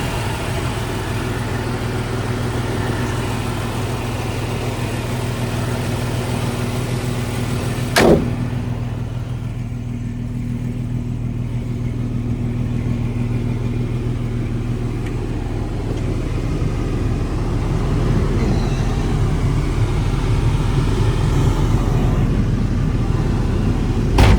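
Jeep 4.0 inline-six with a Banks header idling steadily, in good running order. A single sharp click sounds about a third of the way in.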